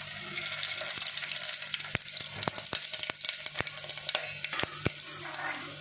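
Whole spices (cardamom, cloves, peppercorns, cumin, star anise, bay leaf) sizzling in hot oil in a pot, with a steady hiss and many sharp crackles and pops, thickest in the middle. This is the tempering stage, the whole spices spluttering as they release their aroma.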